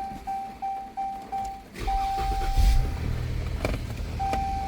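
2018 Dodge Charger being started: a dashboard warning chime beeps rapidly at one pitch, then about two seconds in the engine cranks, catches and settles into a steady idle while two longer chime tones sound.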